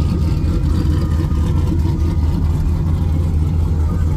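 Turbocharged LSX V8 engine of a box Chevy running steadily with a deep, even rumble, neither revving up nor dropping.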